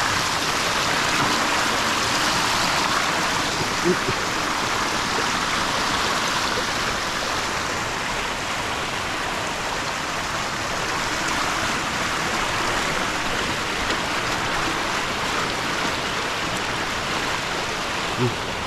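Steady rush of flowing storm water, with a couple of faint knocks, one about four seconds in and one near the end.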